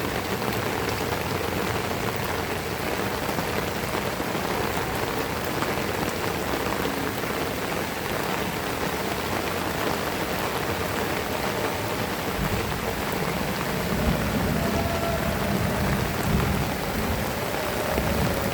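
Heavy rain falling steadily, a dense, even hiss of drops hitting the ground and surfaces. A low rumble builds in during the last third.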